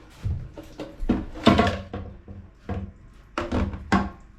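Hard parts being handled and knocked together: a string of about six short knocks and clatters, the loudest about a second and a half in.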